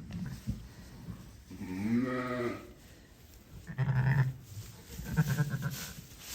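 Sheep bleating in a lambing shed: three separate calls, a longer, higher, wavering bleat about two seconds in, then two shorter, lower ones near the end.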